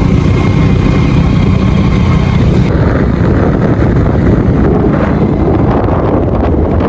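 Loud wind buffeting the microphone with road and engine rumble on a moving motorbike. The higher hiss dulls sharply about three seconds in.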